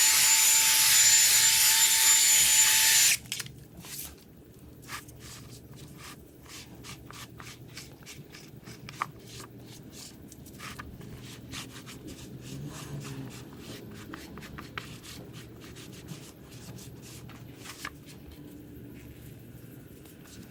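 A loud, whining power tool runs and cuts off suddenly about three seconds in. It is followed by quieter hand rubbing and scrubbing with scattered light clicks and taps, from car-detailing work by hand.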